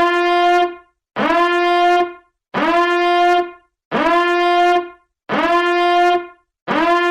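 A horn sounding in six short, evenly spaced blasts, about one every second and a half, each sliding quickly up to the same steady pitch before cutting off.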